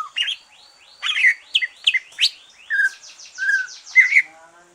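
Cucak ijo (greater green leafbird) singing a fast, varied string of chirps, short whistles and quick down-slurred notes, with a bird in full song after finishing its moult.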